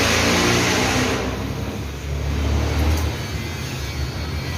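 Low, steady rumble of a motor vehicle running nearby, with a brief hissing rush in the first second and a faint click about three seconds in.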